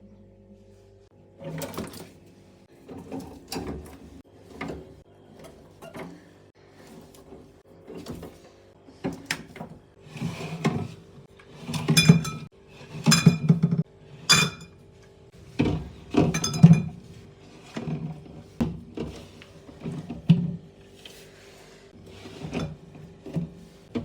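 Items being put into a mini refrigerator: a string of knocks and thunks, with a few louder ringing clinks about halfway through.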